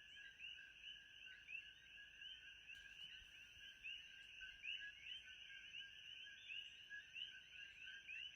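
Faint frog chorus: many short rising chirps overlapping without a break, over a steady high hiss.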